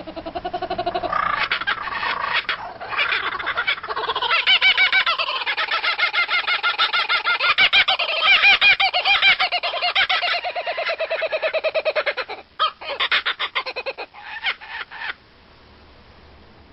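An animal calling in a long run of rapid, pitched pulses, several a second, that stops about fifteen seconds in.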